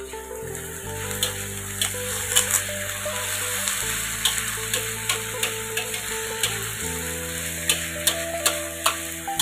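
Raw chicken pieces sizzling in a wok as they are stir-fried, a metal utensil scraping and clinking against the wok about once a second. The chicken has just gone in with the onion, ginger and lemongrass.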